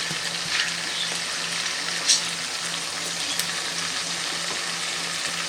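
Chicken pieces sizzling steadily as they brown in hot coconut oil, with no liquid added yet. A faint steady hum sits under it, and a short knock sounds about two seconds in.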